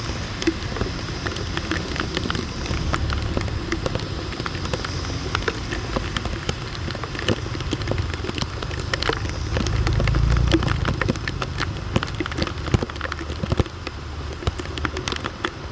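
Steady rain falling on a hard street surface, with many separate drop hits. A low rumble swells briefly about ten seconds in.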